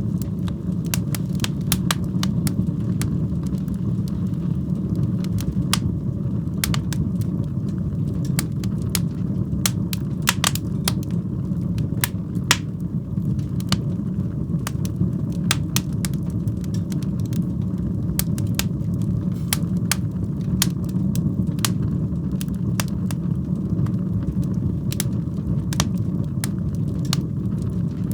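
Wood fire burning in a fireplace: a steady low roar of the flames with frequent sharp crackles and pops at irregular moments.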